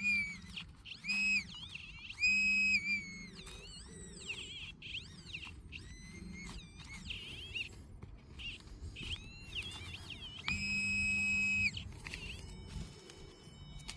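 Minelab Manticore metal detector giving a series of short, pitched target tones that swoop up and down as the coil is swept over a dug hole, with one longer steady tone about ten and a half seconds in. The tones are the detector checking whether a second target is still in the hole.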